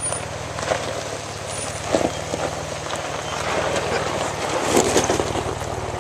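Jeep Wrangler's V6 engine idling steadily, with rustling and two knocks, about two seconds in and near the end, over it.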